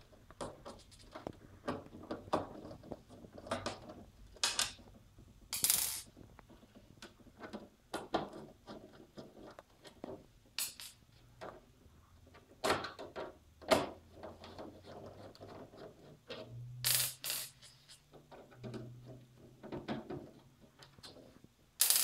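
Phillips screwdriver backing housing screws out of a pitching machine: scattered ratchety clicks and small scrapes, with a few louder brief clatters of handling.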